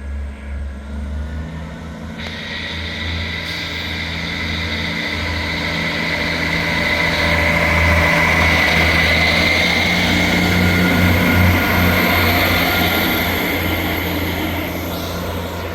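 Class 158 diesel multiple unit pulling away, its underfloor diesel engines working hard as it accelerates, growing louder to a peak about halfway through, then starting to fade near the end.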